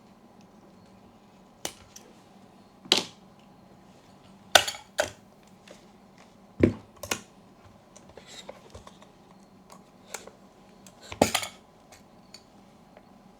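Small tools and camera parts being handled on a work surface: irregular sharp clicks and knocks, about eight in all, with a quick cluster of taps near the end.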